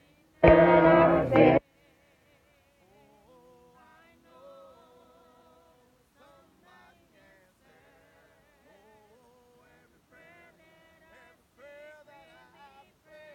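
Congregation singing a hymn without instruments, faint and wavering. About half a second in, a much louder close-by voice cuts in for about a second.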